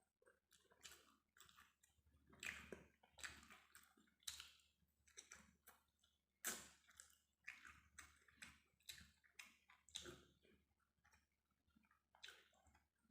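A person chewing food close to the microphone: soft, wet mouth smacks and clicks at irregular intervals, a few louder than the rest.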